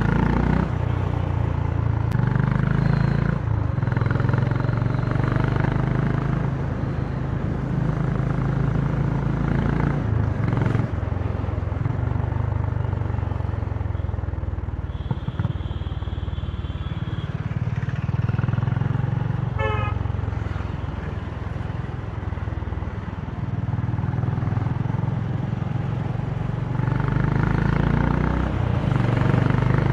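Honda CB350 motorcycle exhaust running at low speed in traffic, its note rising and easing with the throttle. Other vehicles' horns sound briefly, once a few seconds in and again about halfway through.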